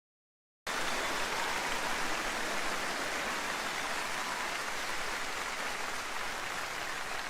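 Large audience applauding, a dense even patter of many hands that starts abruptly just under a second in and eases slightly toward the end.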